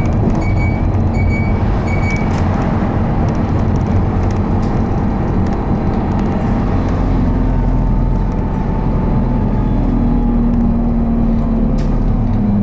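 Steady running noise heard inside a 2019 Isuzu Erga low-floor city bus with an automated manual transmission: engine and road noise throughout. A short high electronic beep repeats during the first couple of seconds, and later on a low whine sinks slightly in pitch.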